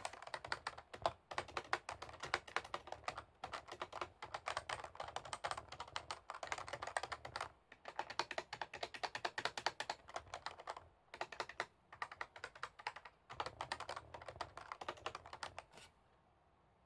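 Fast typing on a computer keyboard, a dense run of key clicks broken by a few short pauses, stopping shortly before the end.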